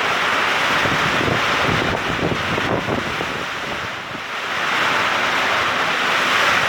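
Very heavy thunderstorm rain pouring down, with strong wind gusting and buffeting the microphone in the first half. The rain noise eases slightly about four seconds in, then builds again.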